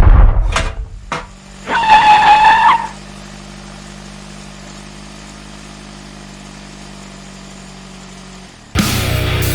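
Sound-design effects for a car explosion: the rumbling tail of a blast dies away, followed by two short clicks and a loud, high squeal lasting about a second. A low, steady hum follows, and a heavy rock music track cuts in near the end.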